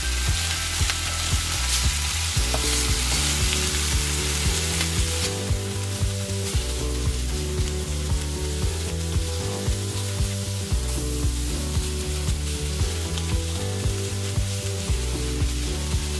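Smoked herring fillets sizzling in hot oil in a nonstick frying pan, with light scrapes and taps as a wooden spoon turns them over. A soft background music bed of low notes plays underneath.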